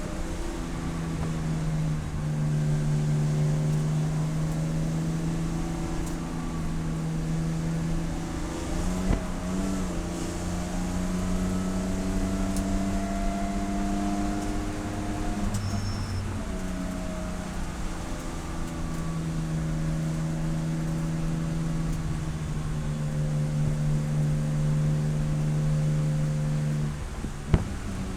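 Race car engine running hard, heard from on board. Its pitch climbs and falls with the revs through shifts and corners, and there is a single sharp knock near the end.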